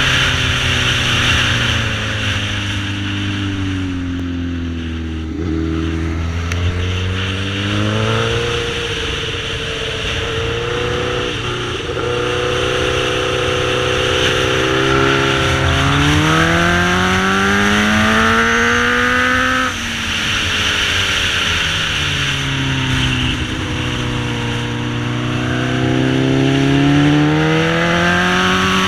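Sportbike engine being ridden hard: the pitch climbs steadily for several seconds as it revs up, then falls away as the throttle closes. It drops suddenly about twenty seconds in, and climbs again near the end.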